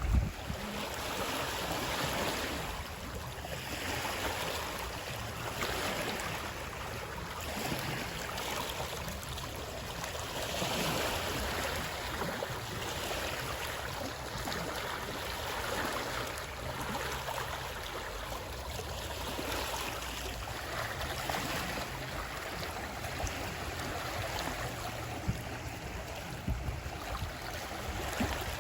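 Flowing water, a steady rushing that rises and falls gently.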